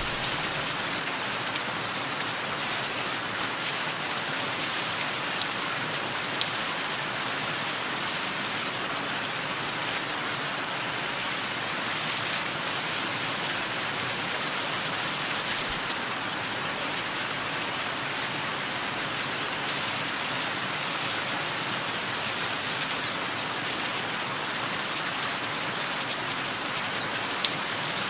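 Steady rain with short, high-pitched bird chirps scattered throughout, often two or three in quick succession.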